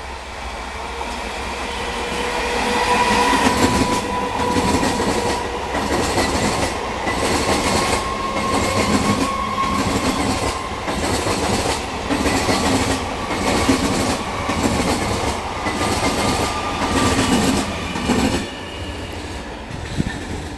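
Electric multiple unit local train passing, its wheels clattering over the rail joints in a steady rhythm under a faint whine. The sound builds over the first few seconds and drops away near the end.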